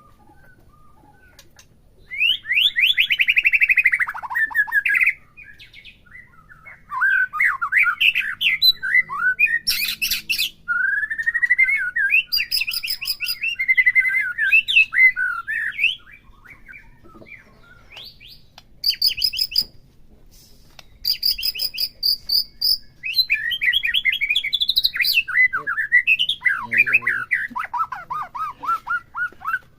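White-rumped shama (murai batu) singing: bouts of varied whistled phrases and fast trills, broken by short pauses.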